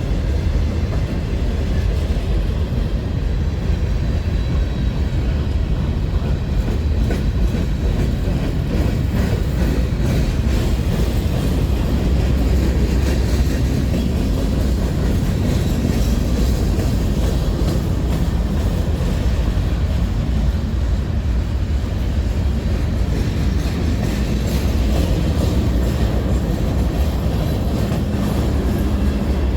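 A train rolling steadily past, its cars running over the rails in a continuous, even rumble.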